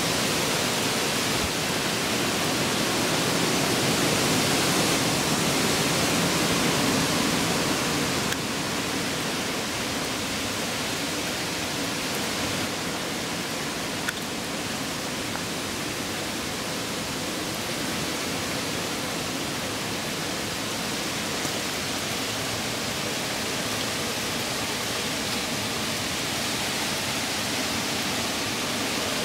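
Hurricane rain and wind making a steady, dense hiss. It is somewhat louder for the first several seconds, then eases slightly about eight seconds in.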